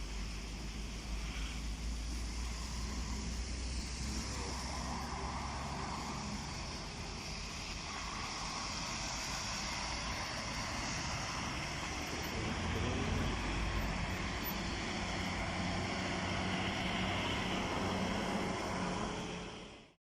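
Steady vehicle and road noise with a low rumble. It gets a little louder past the middle and fades out just before the end.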